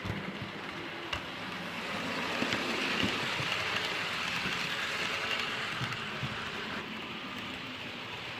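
Model train running along the layout track: a steady whirr and rumble of the wheels on the rails with a few light clicks, swelling as it passes a couple of seconds in and easing off after about six seconds.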